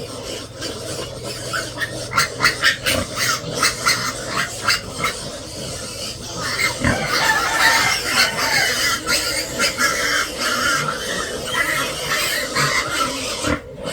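Pigs calling, with a run of sharp clicks over the first few seconds and a denser, higher-pitched stretch of calls from about halfway.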